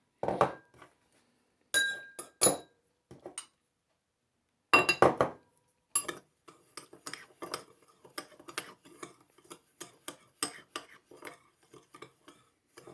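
A spoon clinking and scraping in a bowl as cocoa powder and brown sugar are stirred together. A few separate ringing clinks come first, then a louder cluster, then from about six seconds in a quick, steady run of small scraping ticks as the stirring gets going.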